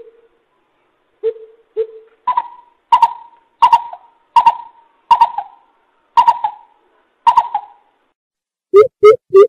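Coucal hooting: a series of short, deep hoots, first a few low notes, then seven higher hoots under a second apart, and near the end a quick run of low hoots begins.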